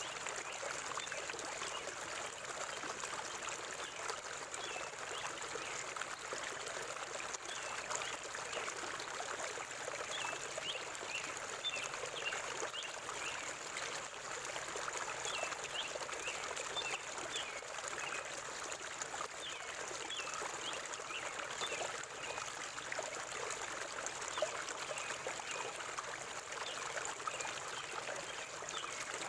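A forest river flowing and trickling over rocks, a steady rushing with small bright splashes and gurgles.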